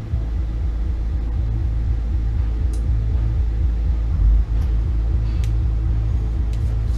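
Steady low rumble with a fast, even pulsing, starting suddenly and swelling briefly about four seconds in.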